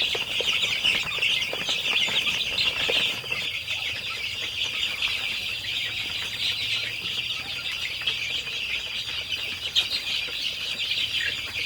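A flock of young chickens cheeping together: a dense, continuous chorus of many overlapping high peeps. A thin, steady high tone runs underneath.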